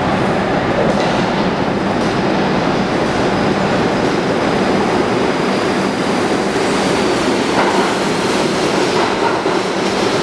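New York City Subway R62A train running into the station: a loud, steady rumble of steel wheels on rail with clickety-clack over the rail joints. A faint high wheel squeal creeps in during the second half.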